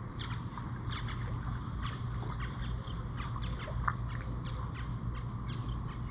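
Birds chirping and squawking in short, irregular calls, over a steady low rumble.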